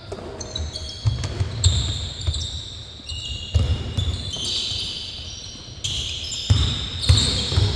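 Basketball game play in a gym: a ball bouncing on the court in repeated thumps, with short high squeaks of sneakers on the floor.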